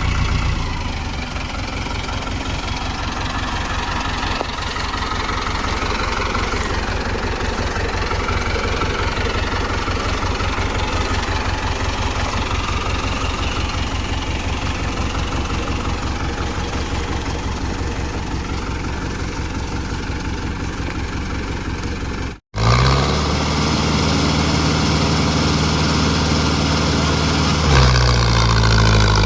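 Diesel tractor engines running. The first runs hard, with a rapid low pulsing; after an abrupt cut a second engine runs steadily and then revs up near the end.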